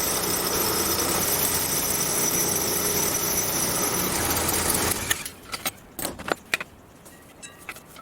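Electric motor of a Gingery milling machine running steadily, switched off about five seconds in. Then scattered light clicks and knocks of metal parts being handled.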